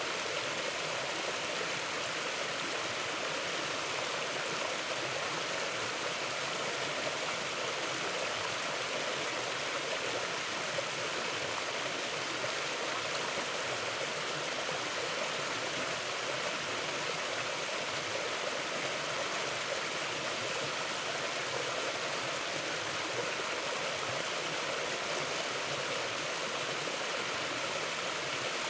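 Mountain river flowing, a steady even rush of water with no breaks.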